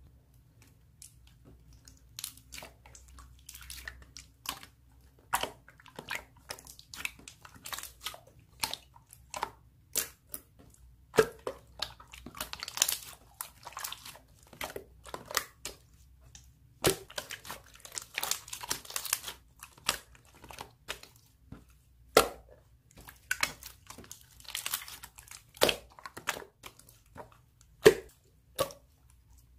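Slime being squeezed and worked by hand, giving off irregular sharp crackles and clicks, several a second, starting about two seconds in.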